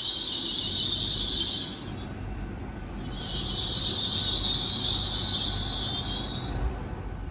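Great Western Railway Class 800 train with a high-pitched squeal over a low rumble as it gets ready to pull away. The squeal stops a little under two seconds in and returns about a second later for about three more seconds.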